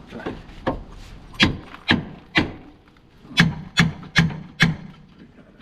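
Seven sharp knocks in two runs, three and then four, about two a second.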